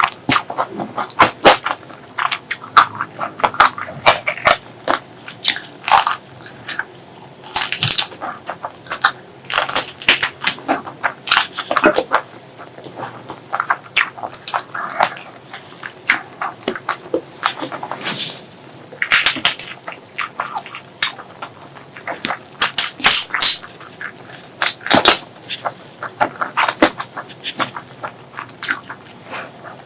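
A person eating close to the microphone: wet chewing and mouth smacks in irregular clusters of sharp clicks, with short lulls between mouthfuls.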